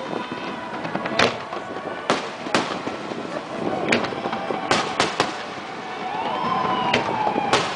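Aerial firework shells bursting overhead: about nine sharp bangs at uneven intervals. A tone rises and then falls about six seconds in.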